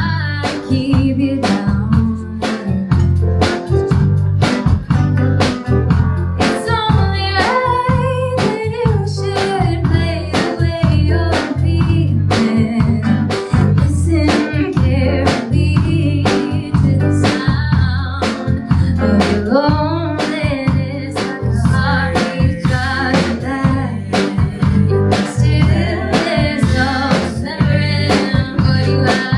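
Live folk-rock band of piano, guitar, bass and drums playing a steady beat while singers sing a melody over it.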